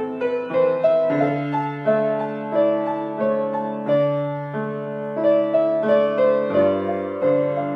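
Piano playing a gentle melody in an even pulse, a few notes a second, over low bass notes.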